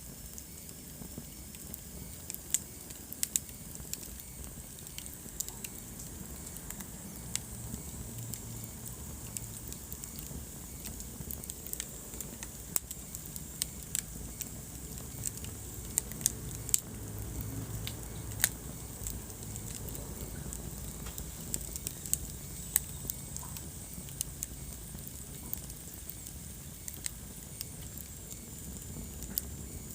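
Wood fire burning in a fireplace, crackling with sharp, irregular pops and snaps over a steady low rumble of the flames.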